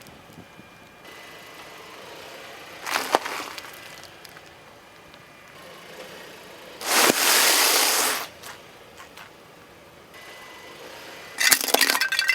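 Objects being crushed under a car's tyres: a sharp crack about three seconds in, a burst with a rush of hiss lasting about a second around seven seconds, and crunching with glassy clinks near the end.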